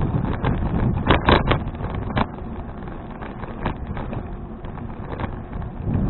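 Wind buffeting the microphone of an action camera on a moving bicycle, a steady low rumble, with a few sharp clicks or rattles about one to two seconds in.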